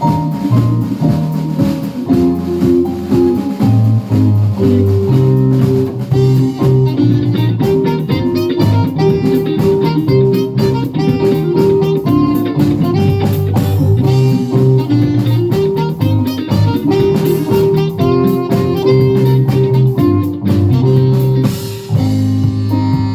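Live band music: electric guitar over bass and drum kit, in a jazzy, bluesy groove.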